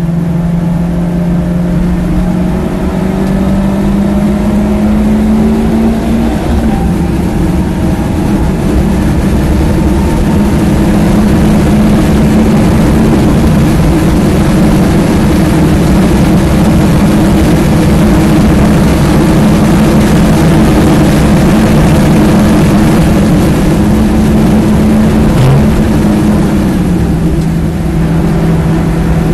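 In-car sound of a BMW E36 318ti's 1.8-litre M42 four-cylinder engine held at high revs under hard acceleration, with heavy wind and tyre noise. The engine pitch climbs over the first few seconds and holds high, then drops near the end with a brief dip as the car slows.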